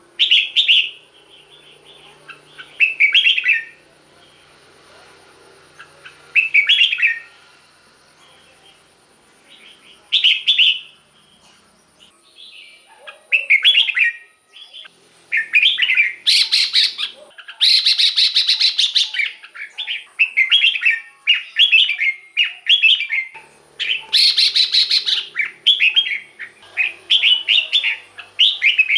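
Red-whiskered bulbul singing: short whistled phrases every few seconds at first. About halfway through it breaks into a busier, almost unbroken run of phrases mixed with harsher chattering notes. A faint steady high-pitched tone runs underneath.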